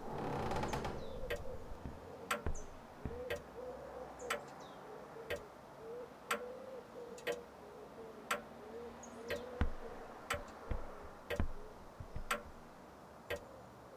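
Steady ticking, about one sharp tick a second, with a faint wavering tone between the ticks and a few faint high chirps.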